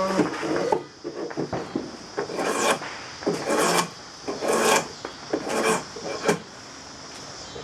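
Drawknife shaving green black locust, a series of scraping cutting strokes about one a second.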